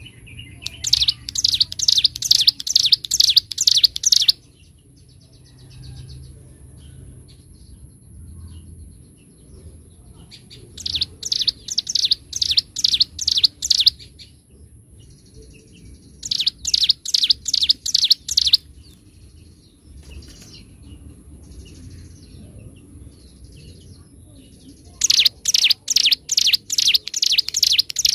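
Ciblek gunung singing in four bursts of fast, evenly repeated high notes, each burst lasting about three seconds, with soft twittering in the gaps between them.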